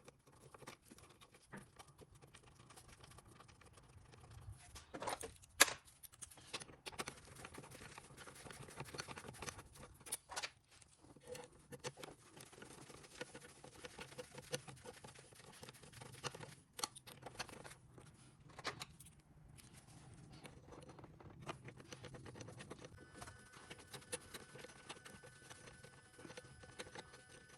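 Quiet handling noises: scattered small clicks and rustles, with one sharp click about five and a half seconds in. A faint steady high whine starts near the end.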